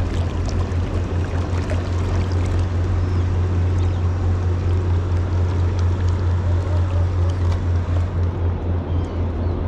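A boat under way on the water: a steady low hum with water rushing and splashing against the hull and small scattered clicks.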